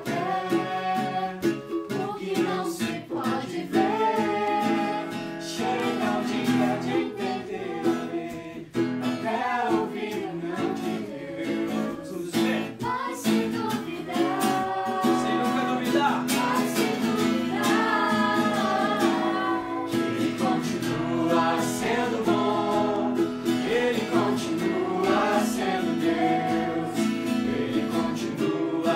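Live singing with a strummed acoustic string accompaniment, a song played continuously without a break.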